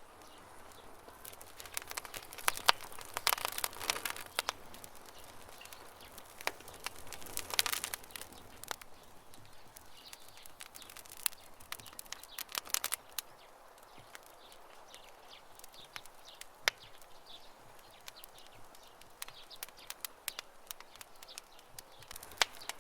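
Campfire wood crackling and popping in irregular clusters of sharp snaps, with birds chirping faintly.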